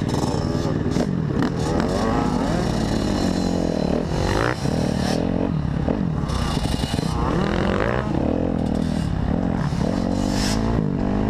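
Dirt bike engine revving up and down repeatedly, its pitch rising and falling over and over, with some scraping and clattering.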